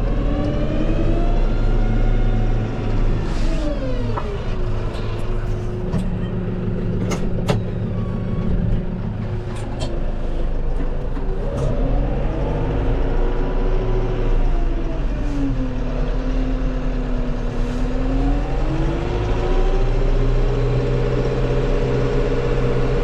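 Tractor engine working while scraping cow slurry, its revs rising and falling several times, with a few sharp clanks.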